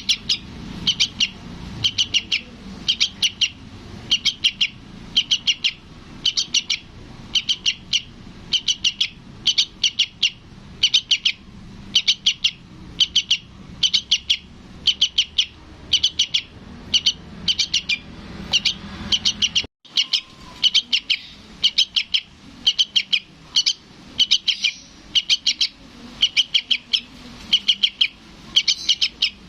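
Sooty-headed bulbul fledgling calling for its parent: short clusters of rapid, high chirps repeating about once a second, with a brief silent break about two-thirds of the way through.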